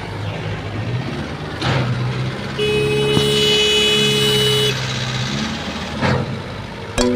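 Vehicle engine running, with a horn sounding steadily for about two seconds in the middle.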